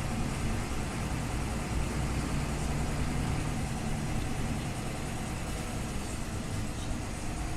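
Scania OmniLink CL94UB city bus's diesel engine running steadily, with a continuous low drone and road and cabin noise, and no sharp events.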